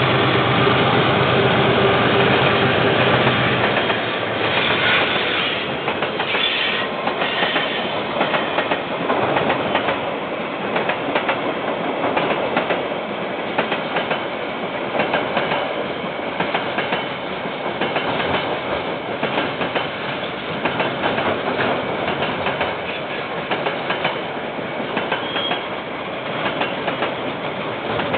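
KiwiRail diesel freight train passing: the locomotive's engine drones steadily for about the first four seconds, then the wagons roll by with a rapid, continuous clickety-clack of wheels over the rail joints. The sound comes through a security camera's microphone, which cuts off the high end.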